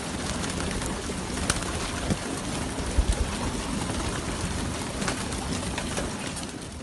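Many racing pigeons cooing together in a loft, a dense steady chorus with scattered sharp clicks from the birds moving about.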